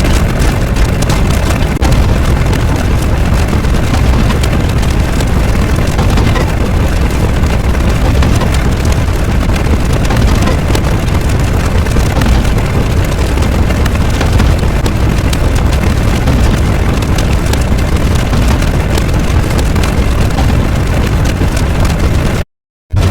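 A loud, continuous rumbling noise, heaviest in the bass, that cuts off suddenly near the end.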